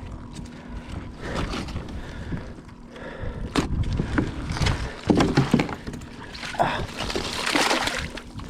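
Water splashing and sloshing at a kayak in irregular bursts, with a longer rush of dripping water near the end.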